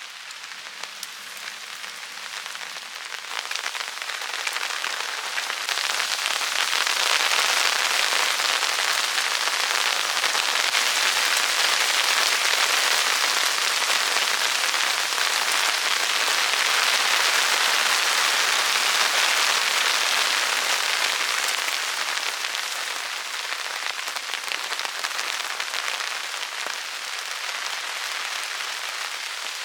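Heavy rain pouring down in a sudden storm, a dense steady hiss that swells over the first several seconds and eases a little after about twenty seconds.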